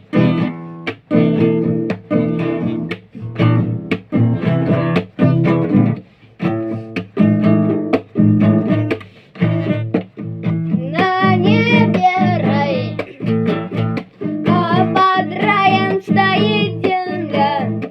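Acoustic guitar strummed in a steady rhythm of chords. Past the middle, a voice joins with wordless singing in wavering held notes, in two phrases.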